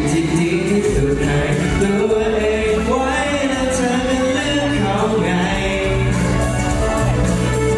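Band music from a live sound check, with a steady bass line under a gliding lead melody and some singing.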